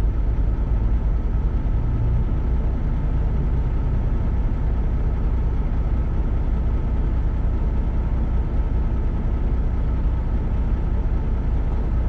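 Semi-truck diesel engine running steadily with a low, even rumble.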